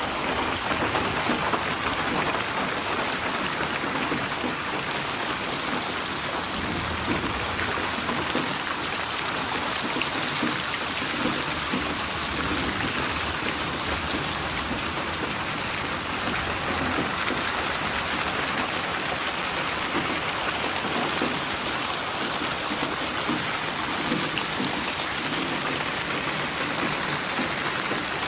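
Steady rain falling and pattering on surfaces, an even hiss without a break.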